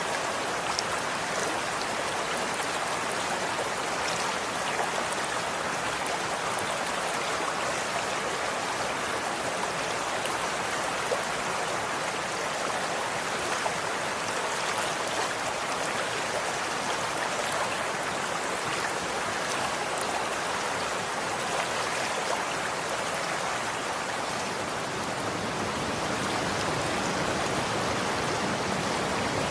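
Running water flowing steadily: an even rushing hiss with a few sharper splashes.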